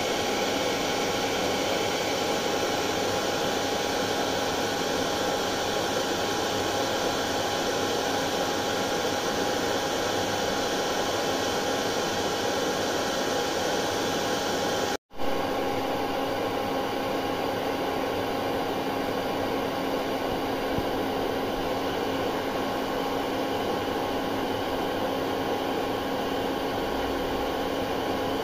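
Hair dryer running steadily: a continuous airy rush with a faint steady hum. It cuts out for a split second about halfway, then carries on with a slightly different hum.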